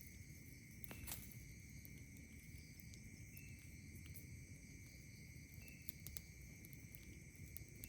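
Faint night ambience: insects hold a steady high drone, while a campfire crackles with scattered small pops and one sharper crack about a second in.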